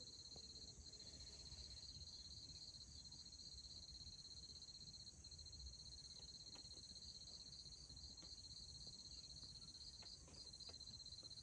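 Faint chorus of crickets trilling, a steady high-pitched pulsing trill that does not break.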